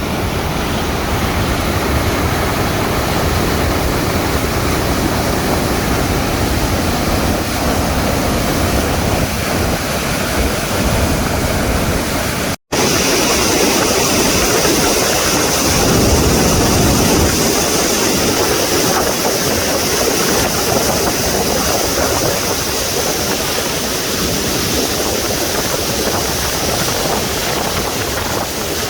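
The Arkansas River running high, near flood stage, its water rushing steadily at the diversion headgates. The sound drops out for an instant about halfway through, then carries on with an added high hiss.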